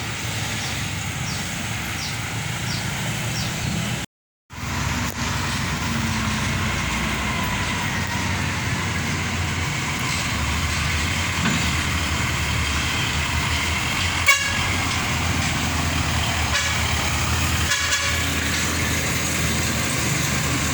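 Diesel engines of Hino 500 concrete mixer trucks running steadily as the convoy passes, with a short horn toot about fourteen seconds in and another briefer one a few seconds later.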